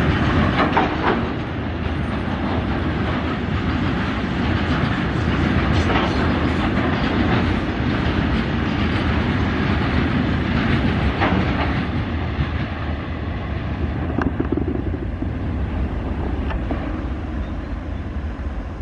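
Train of bogie petroleum tank wagons (BTPN) rolling past on the track: a steady rumble of wheels on rail with a few sharp clicks. It grows a little quieter near the end as the brake van passes.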